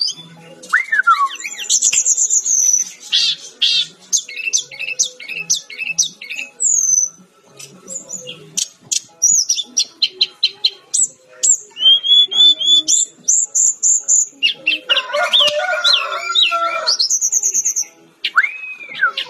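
Sikatan-rimba dada-coklat (a jungle flycatcher) singing a fast, varied song of high whistles, rapid trills, sweeping glides and short chips. About three-quarters of the way through comes a rougher, harsher chattering passage, and near the end a whistle that rises then falls.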